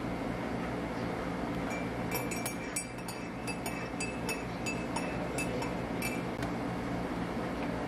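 Light clinking of small hard objects being handled, about a dozen quick clinks through the middle of the stretch, over a steady low hum.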